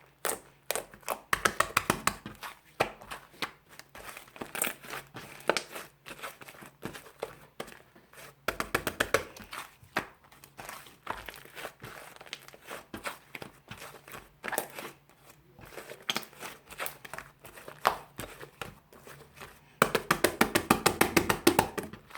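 Fluffy clay slime squished and stretched by hand, giving runs of quick small crackling pops, densest near the end.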